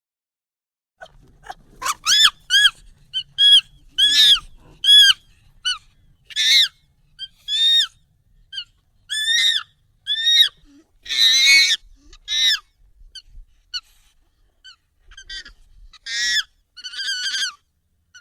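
Monkey calls, sped up and raised in pitch: a string of short, high, arched calls, roughly one every half second, starting about a second in, with one longer, harsher screech near the middle and a quick run of calls near the end.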